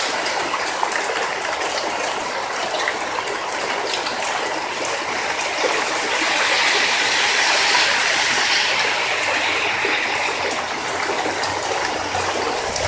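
Heavy thunderstorm rain pouring down steadily, with the rush of running water. It swells and brightens for a few seconds around the middle as a car passes on the wet street.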